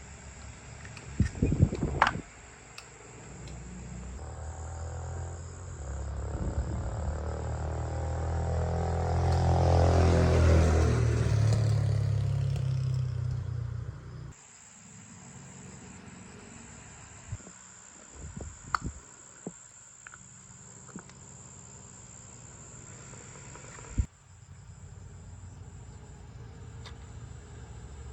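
An engine runs up in speed, its pitch rising and falling, and cuts off sharply. Then a steady high chirring of insects goes on, with a few sharp metallic clicks.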